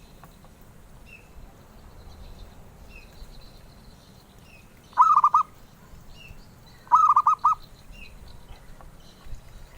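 Zebra dove (perkutut) cooing: two loud bursts of rapid staccato coos about two seconds apart, each a quick run of four or five notes. A faint short high chirp repeats about every second and a half.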